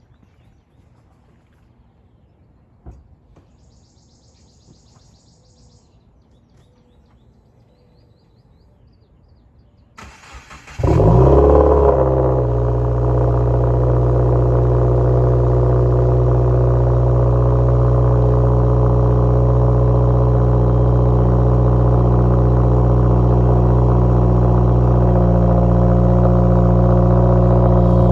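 After about ten seconds of quiet with a single click, a 2020 Subaru WRX's turbocharged 2.0-litre flat-four cranks briefly and catches, flaring up loudly for a second before settling into a steady cold-start fast idle. The exhaust sounds through an axle-back muffler delete, with no mufflers.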